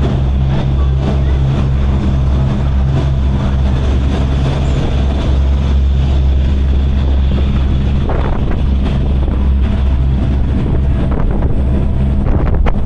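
Diesel engines of a high-speed passenger ferry running at cruising speed: a loud, steady low drone with a hum that holds constant.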